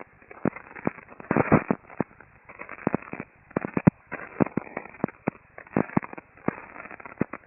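Shortwave radio static through a receiver: irregular crackles and pops of varying loudness over a hiss, with a narrow, muffled radio sound.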